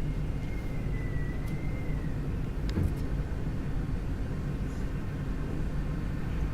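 Typhoon-strength wind buffeting the microphone: a steady, choppy low rumble, with a faint thin whine over the first two seconds and a single sharp click about three seconds in.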